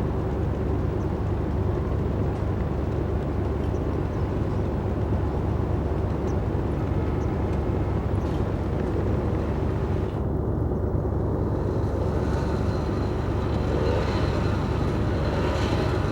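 Speedboat engine running steadily, a loud continuous drone.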